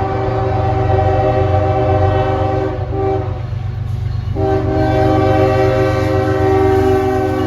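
Diesel locomotive air horn blowing a long blast that breaks off for about a second roughly three seconds in, then sounds again, over the steady low rumble of the train.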